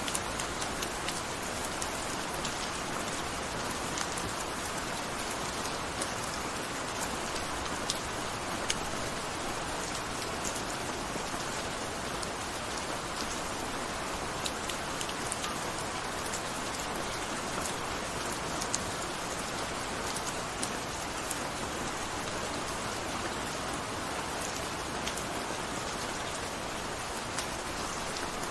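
Steady gentle rain, a constant hiss with many separate drops pattering on a surface.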